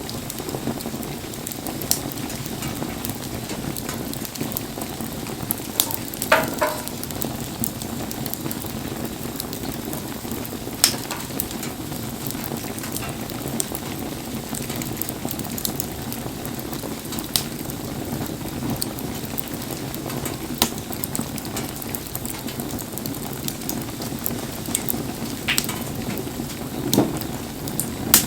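Wood fire burning in the rain: a steady hiss and crackle, with sharp pops every few seconds.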